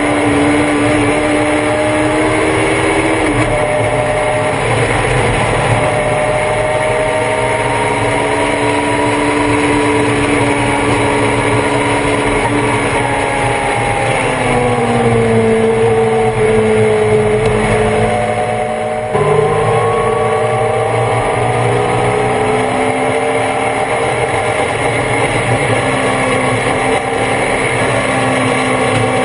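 On-board sound of a Thunder Roadster race car's engine running hard under racing load. The pitch holds high, sinks for several seconds about halfway through, jumps up abruptly about two-thirds of the way in, then climbs again. Steady wind and road noise run underneath.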